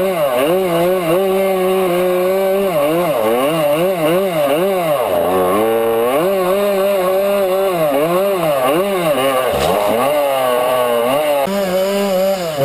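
Dirt bike engine revving up and down over and over as the throttle is worked, its pitch rising and falling about once a second.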